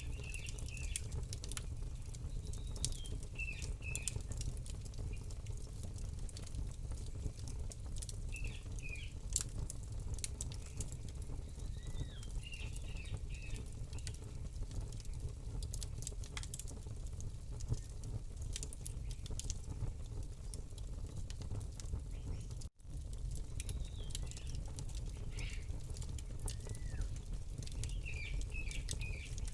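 Campfire crackling with frequent sharp pops over a low steady rumble, while a small bird chirps short phrases every few seconds. The sound drops out for an instant about three quarters of the way through.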